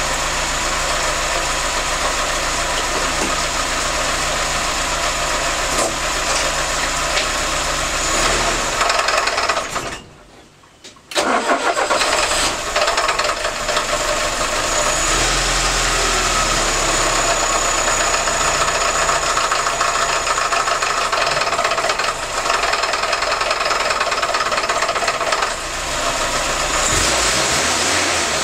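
VAZ-2101 (Zhiguli) inline-four petrol engine running with a knock in it. About ten seconds in it cuts out for about a second, then starts again and runs on.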